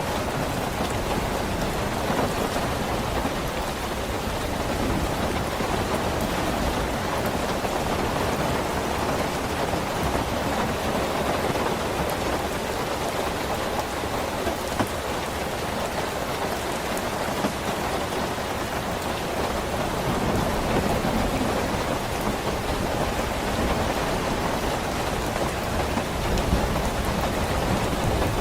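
Steady heavy rain falling on a surface, an even hiss with no pauses. A low rumble of thunder sits under it at the start and builds again near the end.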